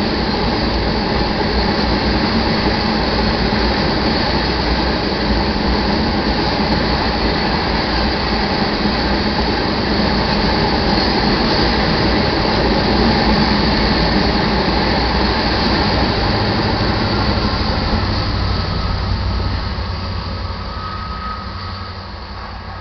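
Loaded iron ore train rolling past on the rails: a steady, loud rumble and rattle of freight cars, fading over the last few seconds as the train moves away.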